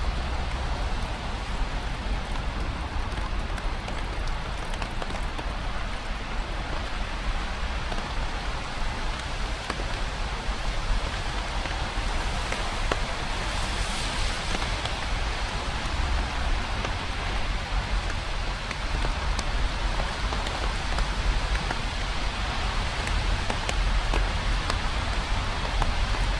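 Steady rain falling, an even hiss of drops on the ground, with a brief brighter swell about halfway through.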